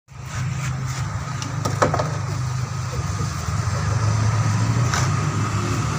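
Daihatsu Gran Max engine idling steadily, with a few sharp clicks about two seconds in and again near the end.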